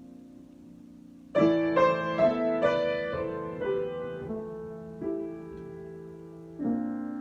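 Solo piano improvisation, no voice. A held chord fades, then a quick run of struck notes comes about a second and a half in and rings down. Another note follows, and a new chord is struck near the end and left to sustain.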